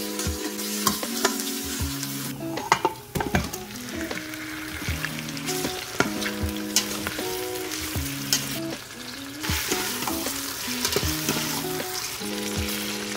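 Onions, ginger-garlic paste and then chicken pieces sizzling in hot oil in a stainless steel pot, stirred with a metal spatula that scrapes and clicks against the pot. Soft background music plays underneath.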